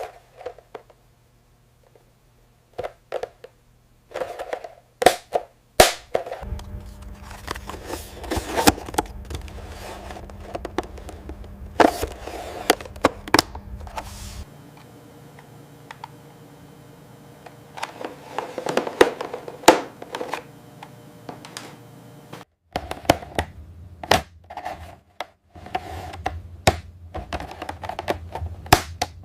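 Irregular clicks and knocks, some sharp and loud, from factory handling and machinery. In two stretches a low steady machine hum runs underneath, starting and stopping abruptly.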